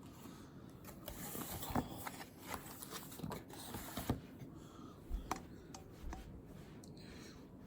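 Handwriting on paper at a desk: scratchy pen strokes, with scattered small taps and a few soft knocks.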